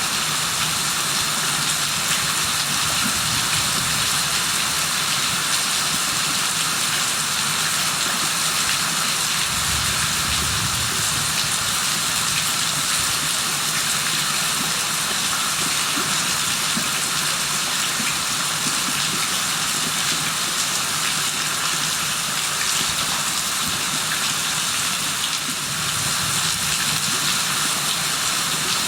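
Steady rain falling in a continuous hiss, with a brief low rumble about ten seconds in and again near the end.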